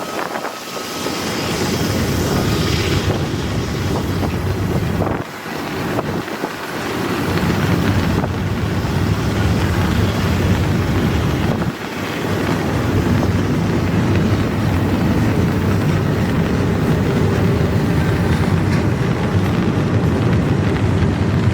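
Long, slow intermodal freight train rolling past: a steady, loud rumble of wheels on rail, with wind buffeting the microphone.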